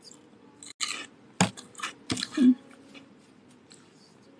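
A few crunchy bites and mouth clicks close to the microphone, bunched between about one and two and a half seconds in, with a short low murmur at the loudest point.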